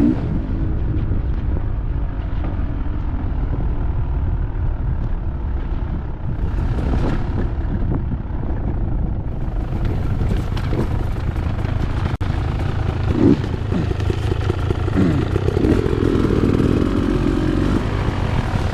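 Dirt bike engines running under way, with a steady low drone. In the second half the revs rise and fall several times.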